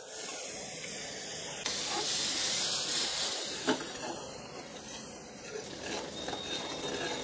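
Hissing and sizzling as mutton stock is poured into spice masala frying in a pan, the stock deglazing masala that has started to burn. The hiss swells about two seconds in and then settles into a steady sizzle, with a steel spoon stirring through the paste.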